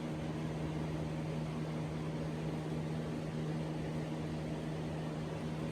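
Steady hum of a running electric motor, one low tone with overtones over an even hiss.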